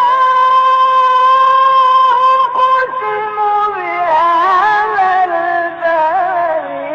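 Egyptian-style Quran recitation: a solo reciter's voice holds one long, high, steady note for about two and a half seconds. It then drops a little lower into a winding, ornamented melodic run.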